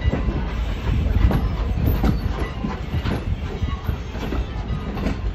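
Railway passenger coach rolling through a yard: a steady low rumble with irregular clicks and clunks as the wheels pass over rail joints and switches.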